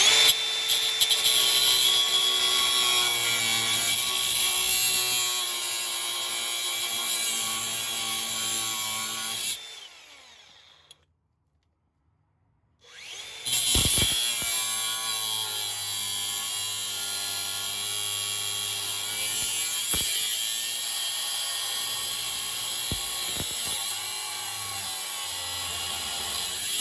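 Power grinder with a cutting wheel cutting off the bolt heads of a rusted exhaust clamp. It runs for about nine seconds, stops, then starts again a few seconds later and runs on. It makes a steady high whine that sags slightly in pitch under load, with a few sharp clicks in the second run.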